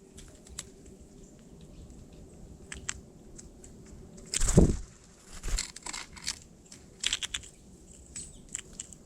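Birds moving about close to the microphone: scattered clicks and scrapes, with a louder flutter of wings about halfway through and a few smaller ones after it. No calls.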